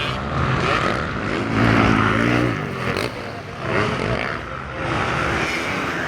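Motocross dirt bike engines revving, their pitch rising and falling repeatedly.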